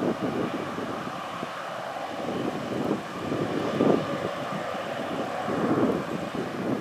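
Jet airliner engines running steadily, a broad rush with a faint steady whine and a couple of small swells partway through.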